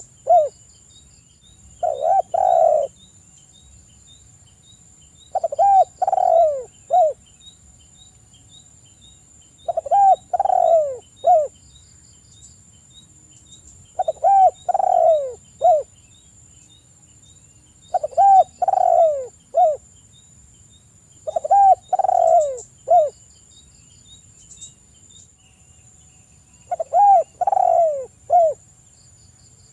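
Spotted dove (tekukur) cooing in repeated phrases of three or four notes, the last note short, with a phrase about every four seconds.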